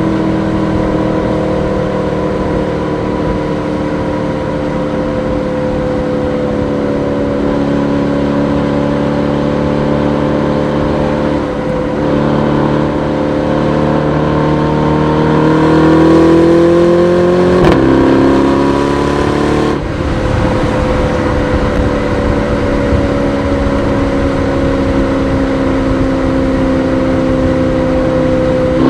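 Aston Martin DBX S 4.0-litre twin-turbo V8 running under way. Its note sinks slowly, climbs briefly as it accelerates, drops abruptly as it changes gear about two-thirds of the way in, then settles to a steady cruise.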